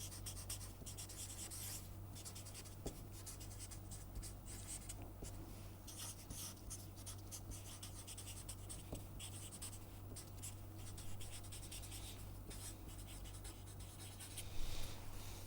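Faint scratching of a pen writing and sketching on paper, in many short irregular strokes, over a steady low electrical hum.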